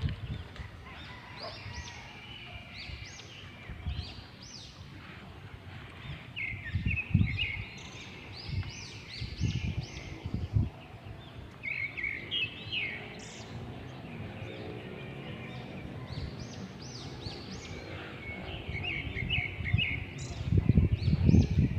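Small birds chirping and calling in quick clusters of short high notes, on and off throughout, with a few soft low thumps now and then.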